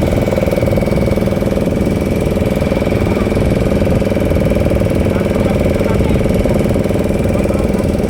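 Boat engine running steadily at a constant speed, loud and close.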